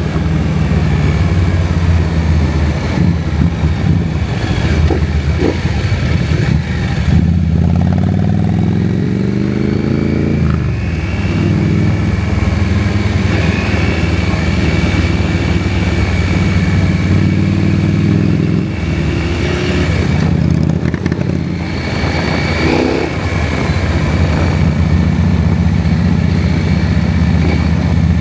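KTM 790 Adventure's parallel-twin engine running under way, mostly at steady revs. About a third of the way in, the revs climb in pitch for a few seconds and then drop abruptly.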